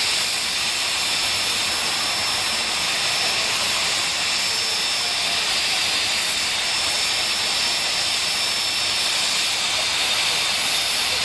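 Jet turbine engine of a jet-powered drag car running steadily, a constant high whine over a loud, even hiss with no rise or fall in pitch.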